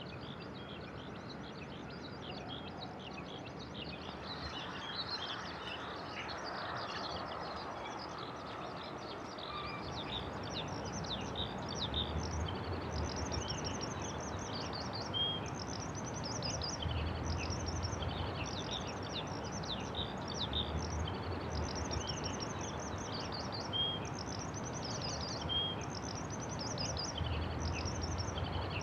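Dawn birdsong: several small birds singing and chirping, with repeated high trilled phrases that grow busier about a third of the way in. Underneath runs a steady low background noise.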